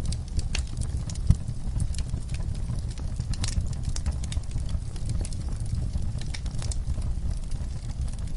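Wood fire burning in a fireplace: a steady low rumble of the flames with scattered crackles and pops, one louder pop about a second in.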